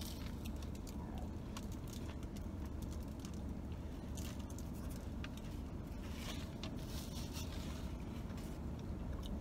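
A person chewing a large bite of a toasted sub sandwich, with scattered faint crackling and crunching clicks, over a steady low hum inside a car's cabin.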